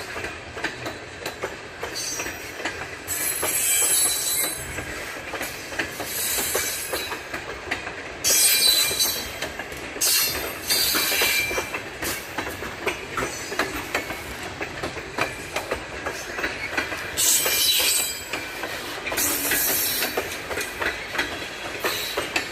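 Freight train of refrigerated boxcars rolling slowly past, wheels clicking over the rail joints, with about half a dozen second-long bursts of high-pitched wheel squeal.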